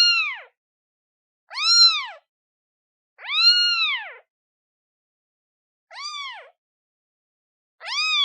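Day-old newborn kitten meowing again and again, calling for its mother: about five separate meows, roughly one every one and a half to two seconds, each rising then falling in pitch. The meow in the middle is the longest and the one after it is quieter.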